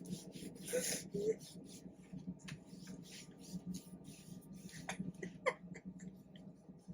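Quiet room with a steady low hum, scattered faint rustles and clicks, a breath about a second in, and a couple of brief squeaky vocal sounds, one about a second in and one around five seconds in.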